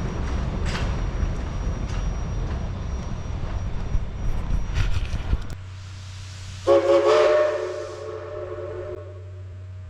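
Low rumble of a train ride with a few clicks, which stops abruptly about five and a half seconds in. About a second later a steam locomotive whistle sounds one loud blast of about two seconds, several tones at once, and its lower tones linger faintly after it.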